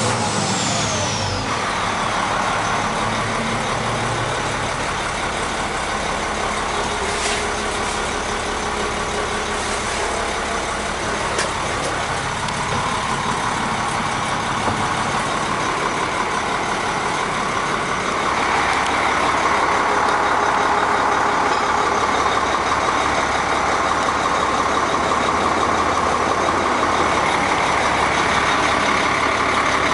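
Rebuilt International DT466 inline-six diesel of a medium-duty truck running steadily, with a whine falling away at the start. It gets louder about eighteen seconds in.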